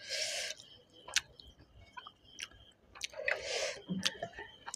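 Close-up eating sounds of a person eating chicken curry and rice by hand: chewing with sharp wet mouth clicks, and two short squishy bursts, one at the start and one about three seconds in.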